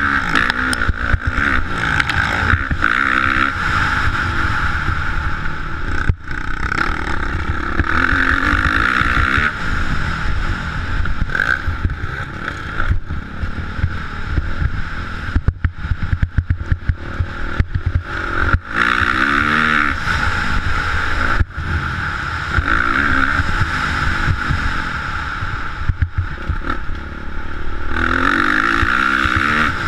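Motocross motorcycle engine revving up and dropping back again and again as it accelerates and eases off, with a steady rushing hiss over it.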